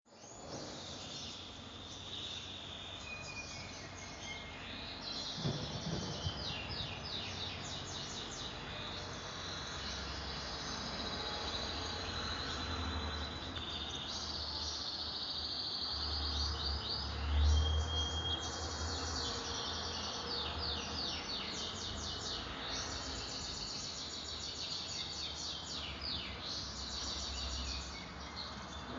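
Small birds chirping in rapid repeated trills, on and off throughout, over a low steady hum, with one soft knock about five seconds in.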